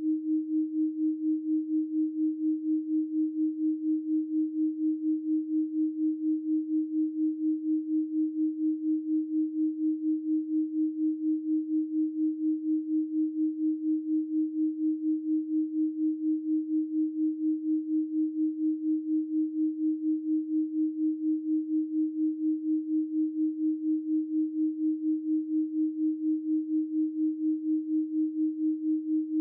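A steady 312 Hz pure sine tone, one unchanging low-middle pitch that wavers evenly in loudness about three times a second.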